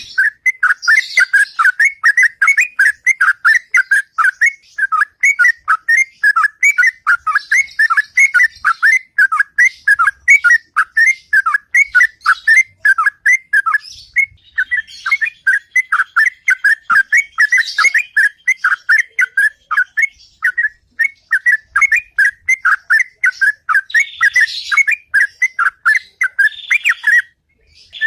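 Sooty-headed bulbul (trucukan) singing its long 'ropel' song: a continuous run of rapid, repeated chirping notes, about four to five a second, pausing briefly near the end.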